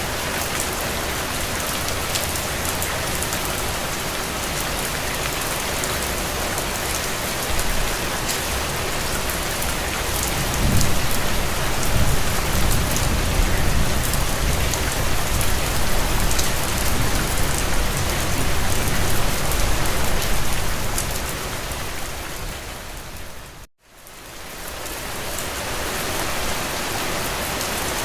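Steady rain pattering on a window, with fine drop ticks throughout. A deeper low rumble swells up for about ten seconds in the middle. About three-quarters of the way through, the sound fades out to a moment of silence and then fades back in.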